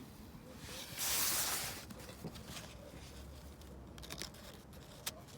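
A book's paper page being turned: one brief rustle about a second in, then a few faint handling clicks.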